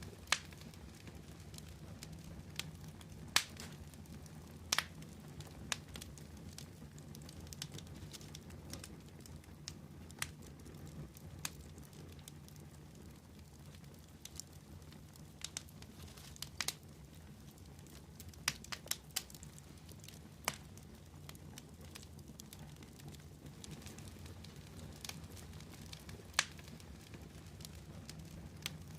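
Wood fire burning: a steady low rumble of flames with irregular sharp crackles and pops, a few of them much louder than the rest.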